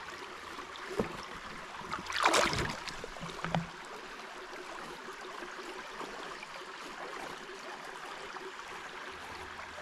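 Shallow creek water running steadily, with a few short knocks and a splash in the first few seconds.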